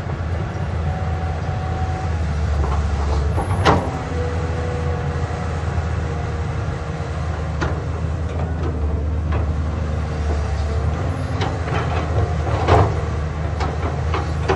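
Caterpillar 320D hydraulic excavator's diesel engine running steadily at work, with two sharp knocks, one about four seconds in and one about thirteen seconds in.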